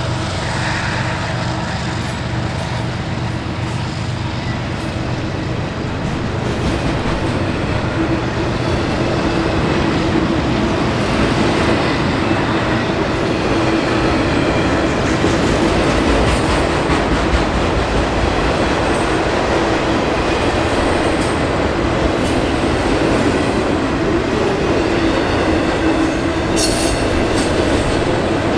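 Norfolk Southern freight train rolling past, its wheels running steadily on the rails; it grows louder over the first several seconds, and there is a brief high squeal of wheel on rail near the end.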